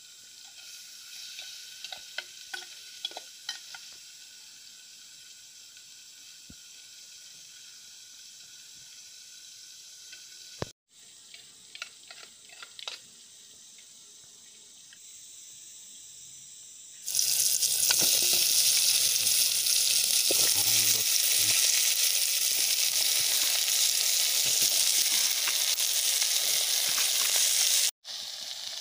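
Food frying in a pot over a wood fire: scattered soft clicks and pops at first, then from a little past halfway a loud, steady sizzle.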